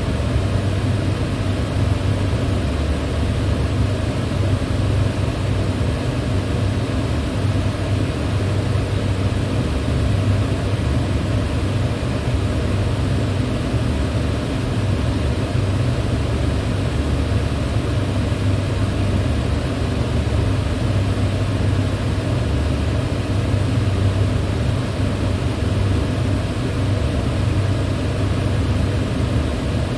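Electric fan running steadily: an even rush of moving air over a low motor hum, with no change in speed or level.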